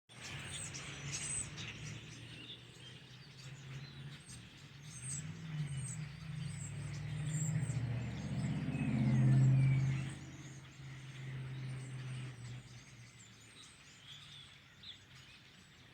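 A large flock of birds chirping and calling throughout. A motor vehicle's engine hum swells and fades underneath, loudest about nine seconds in, as it passes by.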